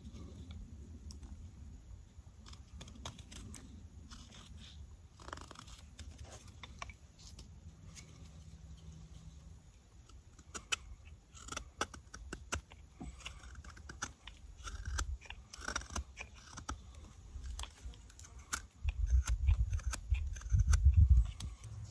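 Carving knife cutting into walnut wood: irregular short slicing cuts and crisp scrapes as shavings come off. A low rumbling comes in briefly about two-thirds of the way through and louder near the end.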